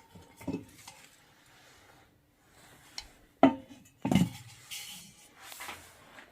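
Kitchenware clattering: a few sharp knocks and clinks of dishes and steamer parts. The loudest knock comes about halfway through, with a second soon after.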